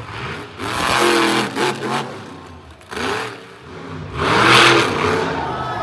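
Monster truck engine revving hard in two surges, the pitch climbing and falling, with the louder surge around four and a half seconds in.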